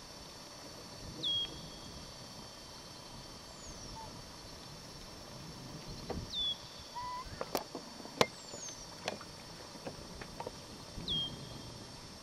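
Small birds calling in the background: a short high chirp and a high falling whistle, each repeated every few seconds. A few sharp knocks break in during the second half, the loudest about eight seconds in.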